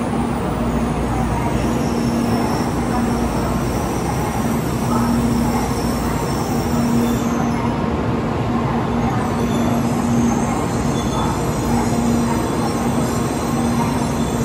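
Tokaido Shinkansen train at the platform: a loud, steady rumble and rush of wheels and running gear, with a low hum that comes and goes.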